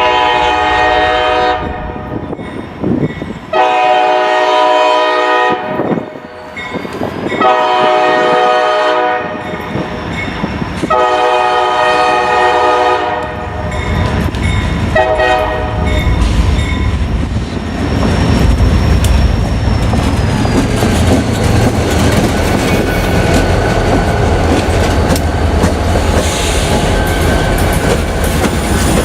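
Diesel freight locomotive horn sounding for a grade crossing: four long blasts and a short fifth one. Then the train's engines and cars rumble past, with wheels clicking over the rail joints.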